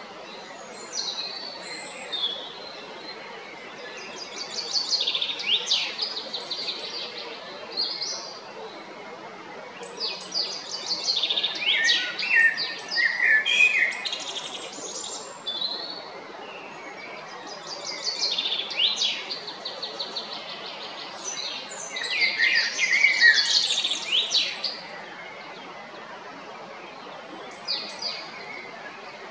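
Male common blackbird singing: six or so short phrases of quick warbling and twittering notes, each a second or two long, with pauses of a few seconds between them.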